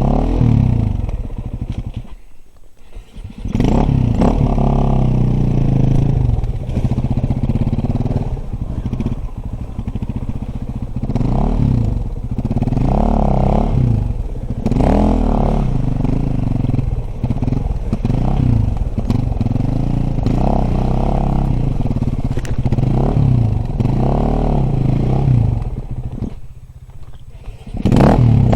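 Dirt bike engine being ridden, its revs rising and falling over and over. The engine drops away briefly about two seconds in and again near the end.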